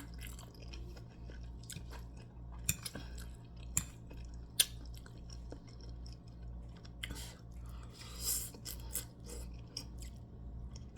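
Close mouth sounds of a person eating and sipping a hot drink: chewing, a few sharp clicks and a longer hissing sip about eight seconds in, over a steady low hum.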